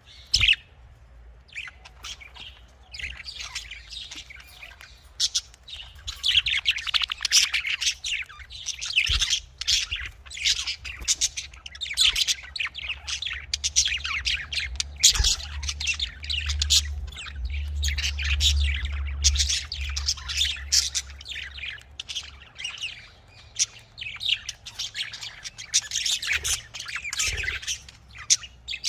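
Budgerigars chattering, with dense overlapping chirps and squawks throughout. A low hum lies underneath, strongest about halfway through.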